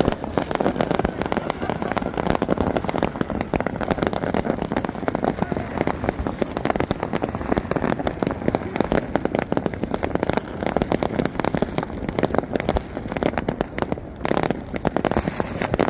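Fireworks and firecrackers going off rapidly and without pause, a dense rattle of cracks and bangs, with voices underneath.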